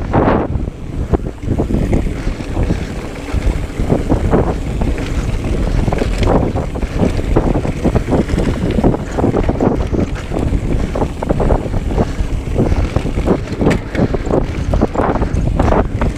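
Wind buffeting the microphone of a camera carried on a moving mountain bike, a heavy rumble broken by frequent irregular knocks and rattles.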